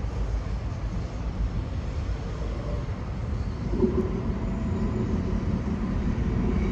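Low rumble of a Sydney Metro train running at the station, growing gradually louder, with faint steady tones of motor whine coming in about halfway through.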